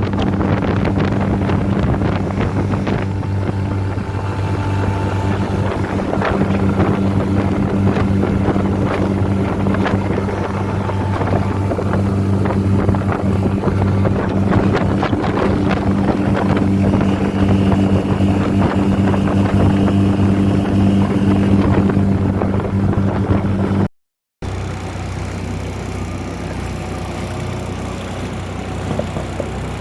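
Honda 20 hp four-stroke outboard running at a steady throttle on a 14-foot aluminum boat, with wind buffeting and water noise around it. After a brief dropout near the end, the engine is quieter and lower.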